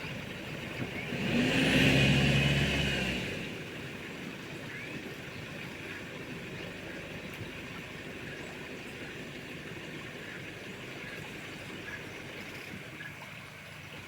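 An engine swells and fades about a second in, lasting roughly two seconds, followed by a steady hiss of outdoor ambience.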